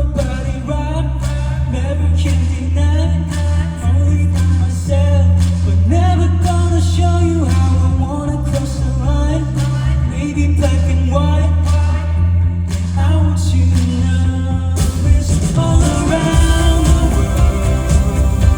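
Live band performance: a male vocalist singing a melody over sustained bass notes, guitar and drums. The accompaniment grows fuller about three-quarters of the way through.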